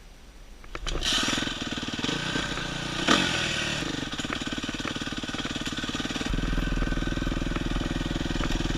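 Dirt bike engine starting about a second in and then running steadily with a fast, even beat, with a short rev near three seconds.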